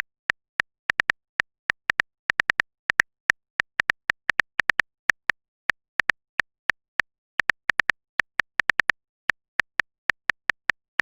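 Typing sound effect: a rapid, irregular run of short, crisp keyboard clicks, about four or five a second, with silence between them.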